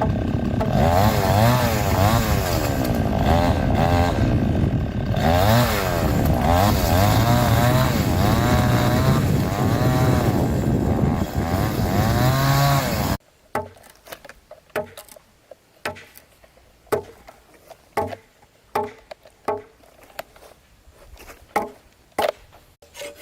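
Chainsaw running and cutting wood, its engine pitch rising and falling repeatedly as it revs and bogs under load. It stops abruptly about 13 seconds in. Then come a series of sharp knocks, irregularly spaced about a second apart.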